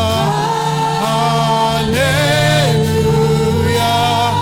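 Gospel worship singing: a choir and congregation hold long sung notes of a simple "Hallelujah" chorus over keyboard accompaniment, with the melody stepping to a new note about halfway through.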